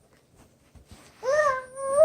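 A 22-week-old baby gives a high, drawn-out fussing squeal about a second in. It breaks off briefly, then starts again.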